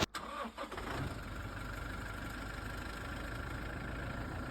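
Vehicle engine idling steadily, with a faint steady whine over a low hum.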